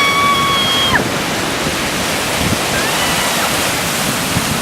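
Steady rush of ocean surf and wind on the microphone. A held, high-pitched call cuts off about a second in, and a fainter short call comes near the middle.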